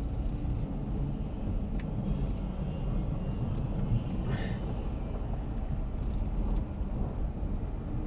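Dodge Grand Caravan minivan running and moving slowly, heard from inside the cabin: a steady low rumble, with a faint click about two seconds in.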